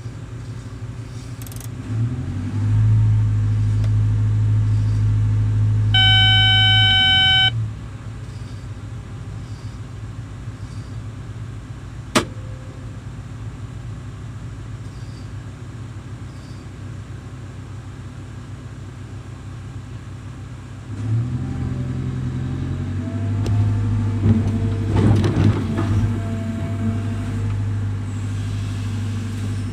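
Excavator's diesel engine running, its revs rising twice as it works. A short horn blast sounds about six seconds in, and there is metallic rattling and knocking near the end.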